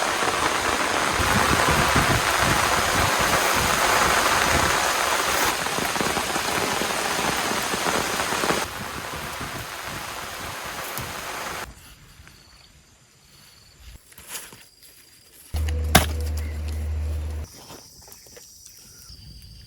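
Heavy rain falling, a dense steady hiss that cuts abruptly to a quieter level about nine seconds in and drops out at about twelve seconds. Later there is a short low hum with a single sharp click.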